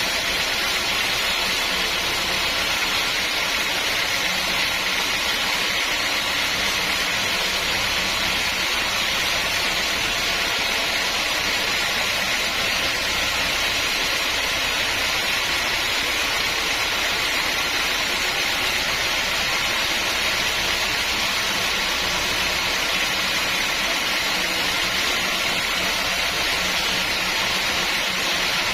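Sawmill machinery running steadily: a constant loud hiss with a low hum underneath.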